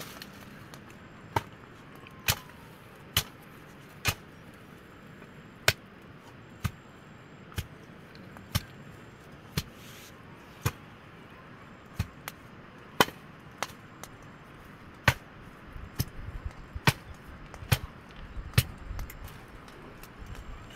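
A knife chopping on a cutting board in slow, separate strokes, about one a second, a little quicker and heavier near the end.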